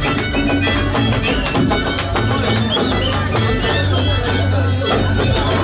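Andean traditional folk music played live, led by a violin over a steady bass line.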